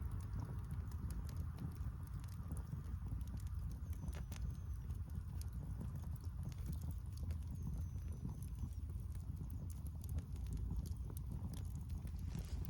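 Wood bonfire crackling, with irregular pops and snaps over a steady low rumble.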